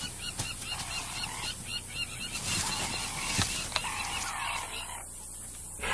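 Spotted hyenas calling at a contested kill: short honking calls that come every second or so. Under them runs a rapid series of small high chirps.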